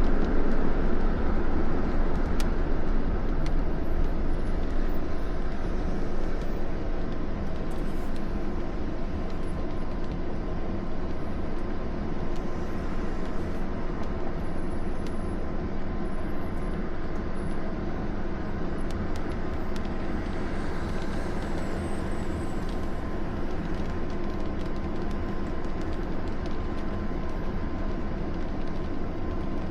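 Steady road and engine noise of a moving vehicle, a low rumble that eases slightly over the first several seconds.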